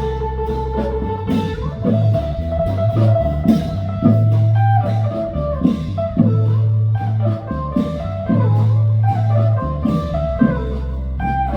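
Loud band music with a drum kit keeping a steady beat, a sustained bass line and a plucked-string melody on top.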